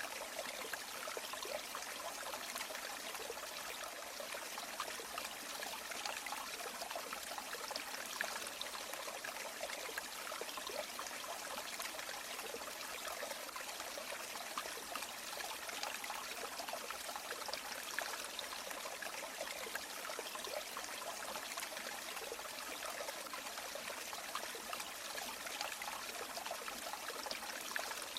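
A river or stream flowing steadily over stones, a continuous rushing and trickling of water with no change in level.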